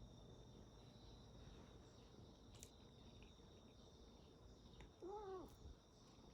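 A cat gives one short meow about five seconds in, rising and falling in pitch, over a faint steady chirring of insects.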